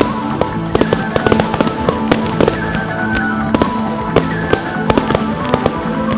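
Fireworks bursting in quick, irregular succession: many sharp bangs and crackles, with music playing underneath.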